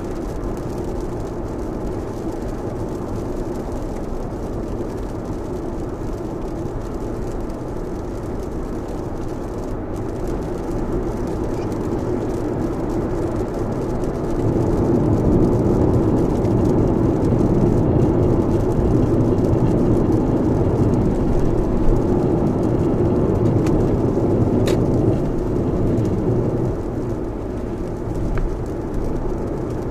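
Lexus RX driving on an expressway in a heavy downpour: a steady rush of tyres on the wet road and rain on the car. The noise swells for about ten seconds midway, then eases.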